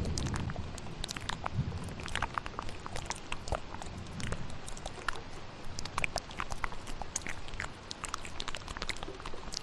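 Close-miked ASMR mouth sounds: many quick wet clicks and smacks at an irregular pace, over a steady bed of rain. A low thunder rumble fades out at the start.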